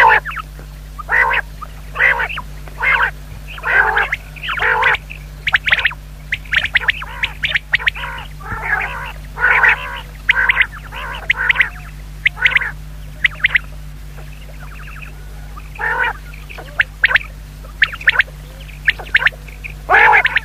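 Female common quail calling: short calls repeated irregularly, about one to three a second, with a brief lull near the middle, over a steady low hum.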